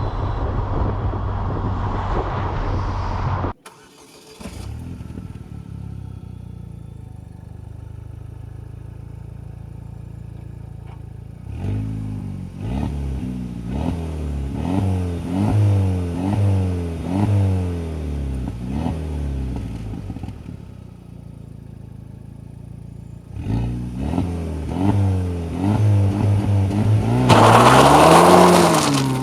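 2007 Saturn Sky Redline's turbocharged 2.0-litre four-cylinder engine. Loud driving noise cuts off suddenly a few seconds in, then the engine runs steadily and quietly. Midway it revs up and down repeatedly, about once a second, and near the end a louder burst of revving comes with a rushing sound.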